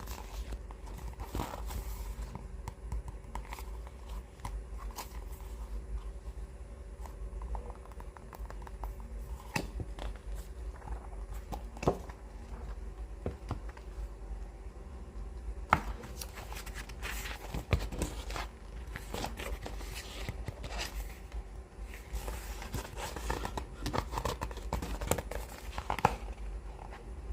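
Fingers handling books close to the microphone: scattered taps and scratches on the covers, with a stretch of paper rustling near the end, over a steady low hum.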